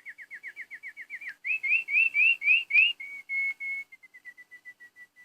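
A songbird singing. It opens with a fast trill of short falling notes, then gives about six slower rising whistled notes and three steady notes, and ends with a softer run of short notes that fades out.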